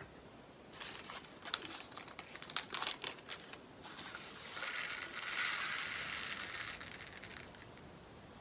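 Small plastic bags of resin diamond-painting drills being handled: light crinkling and scattered clicks, then about five seconds in a sudden rattling rush of tiny drills poured into a plastic pot, fading over about two seconds.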